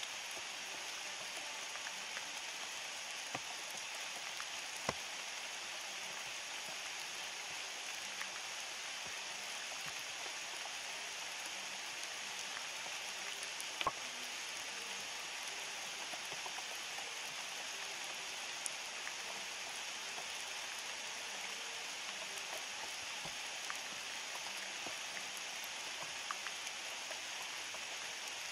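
Steady rain falling, an even hiss, with scattered louder single drops ticking close by; the sharpest tick comes about halfway through.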